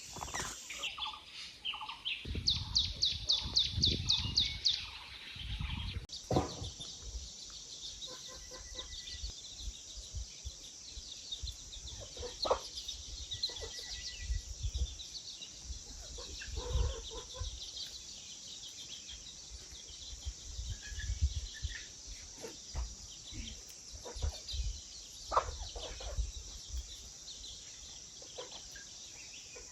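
Chickens clucking, with a fast run of repeated calls a few seconds in. From about six seconds in, a steady chirring of insects runs underneath, broken by scattered low knocks and thumps.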